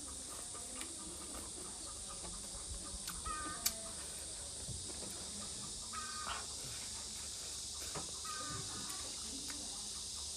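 Chickens clucking in short calls, about three times, over a steady hiss, with one sharp click about a third of the way in.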